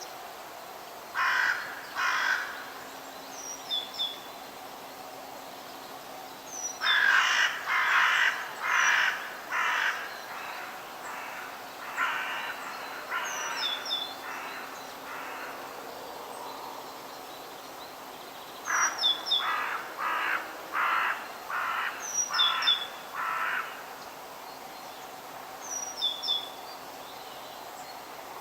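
Forest birds calling. A larger bird gives loud, harsh calls in runs: two near the start, then a run of about eight, then another of about seven. Under them a small bird's short, high chirp repeats every couple of seconds.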